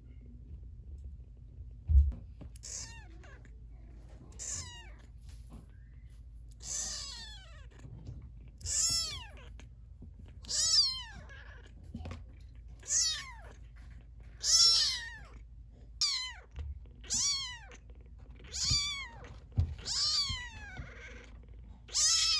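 Three-week-old kitten mewing insistently: about a dozen high mews a second or two apart, each rising and then falling in pitch. A single thump sounds about two seconds in, just before the mewing starts.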